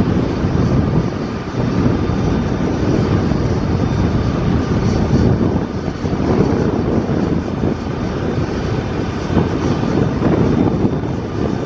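Boeing 737's twin turbofan engines running, a loud steady rumble with a faint thin whine above it.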